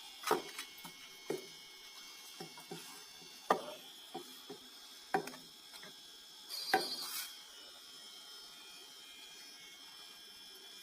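Small clicks and taps of hands handling the opened emergency light's plastic parts and a battery, with a brief scrape about seven seconds in.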